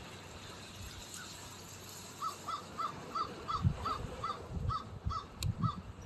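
A bird calling a quick, even series of about ten short notes, roughly three a second, typical of a crow cawing. Low rumbling gusts come in partway through.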